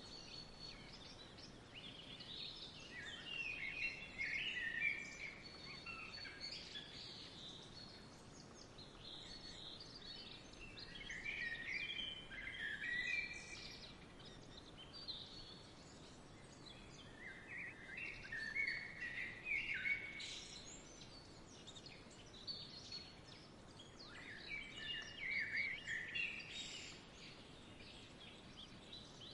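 Small songbirds chirping and twittering in spells of a few seconds, over a faint steady outdoor hiss.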